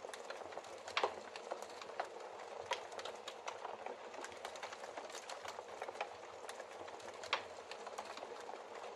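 Wood fire of burning logs crackling: a steady hiss with frequent irregular pops and snaps, two louder pops about a second in and past seven seconds.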